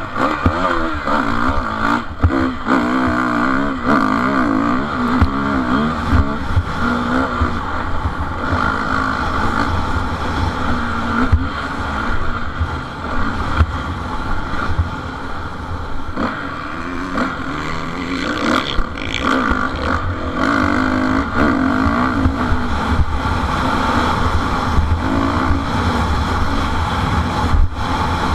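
Motocross bike engines revving, their pitch rising and falling again and again as the bikes accelerate and back off.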